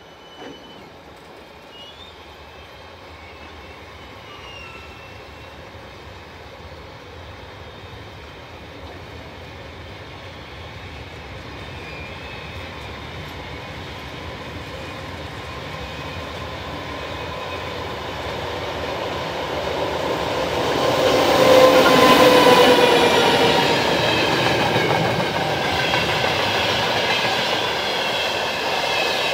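Freight wagons rolling past, growing steadily louder as a pair of Dr18 diesel locomotives approaches. The locomotives pass about two-thirds of the way in, with a humming engine tone at the loudest point. Empty log wagons then clatter and rattle past over the rail joints.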